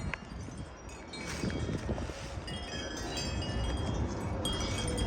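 Ordinary store-bought wind chimes ringing in strong, gusty wind: several tones tinkle and overlap from about a second in, over a low rush of wind.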